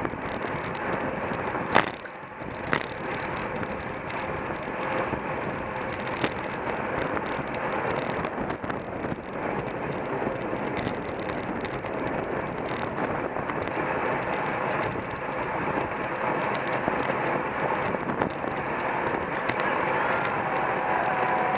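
Road bicycles racing in a criterium: a steady rushing noise of wind and tyres, with two sharp knocks about two and three seconds in.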